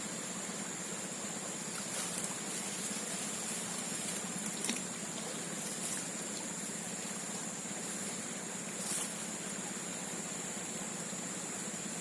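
Steady swamp background: a constant hiss with a thin, high, unbroken tone over it and a few faint clicks.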